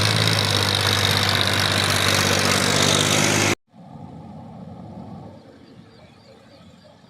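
A vehicle engine running loud and steady, cut off abruptly about three and a half seconds in, followed by a much fainter engine rumble that fades away.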